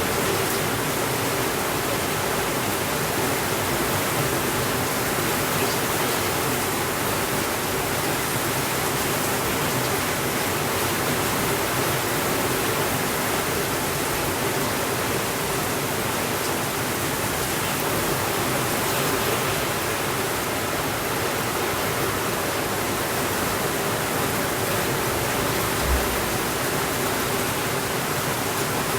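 Steady rainfall, an even unbroken hiss. A single brief low thump comes near the end.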